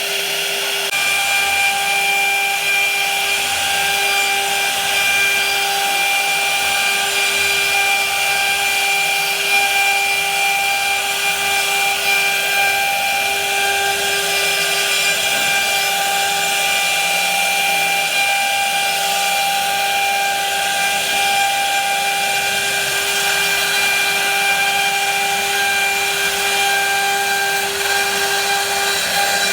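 Electric power tool running steadily as it cuts wood: an even motor whine over a hiss of cutting.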